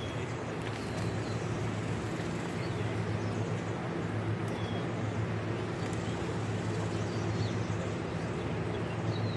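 A steady low machine hum, like an idling engine, with birds chirping briefly now and then.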